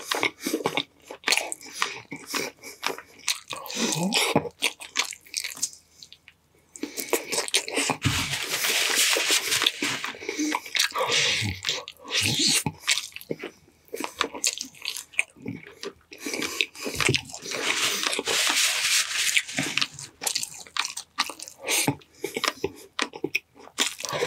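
Close-miked eating: a person chewing and biting food with wet mouth clicks and crunches, and two longer noisy stretches of a few seconds each, one about a third of the way in and one about three-quarters through.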